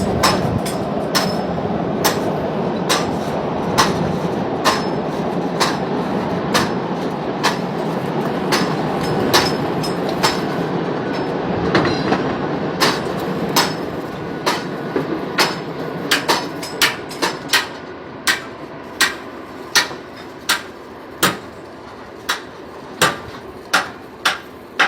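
Repeated hammer blows on a construction site, sharp knocks about once a second over a steady background noise that fades about halfway through; in the second half the blows come quicker and less evenly.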